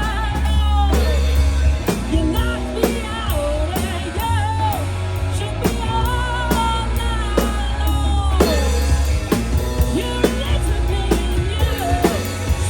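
Rock song with a singer over drum kit, guitar and a heavy bass line, with a steady beat.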